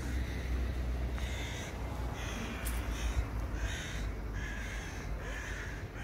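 A bird giving a run of short, harsh cawing calls, about seven of them roughly evenly spaced, starting about a second in, over a steady low outdoor rumble.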